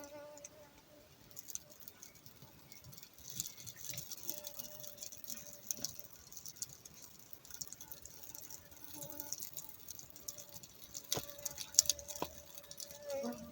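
Campfire crackling with irregular sharp pops, a few louder ones about eleven to twelve seconds in. A mosquito whines near the microphone on and off as a thin, steady high hum.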